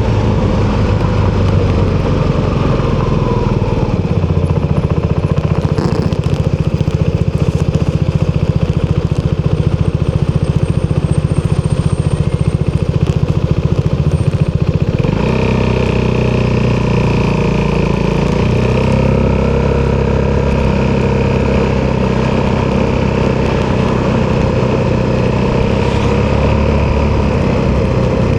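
Italjet Dragster 200 scooter's single-cylinder four-stroke engine running through an Akrapovic exhaust while being ridden. Its note changes abruptly about halfway through, then holds steady.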